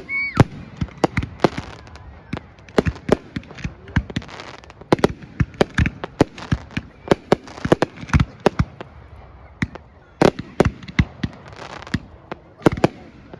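Fireworks going off: an irregular rapid string of sharp bangs and crackles, several a second, with a brief high whistle at the very start.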